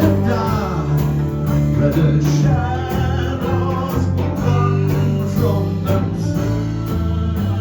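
Live blues band playing, the music led by guitar over a steady bass line.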